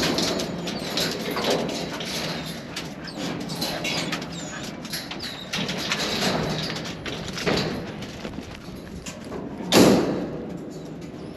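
Horse walking, hooves knocking irregularly on the ground, with one loud thump about ten seconds in.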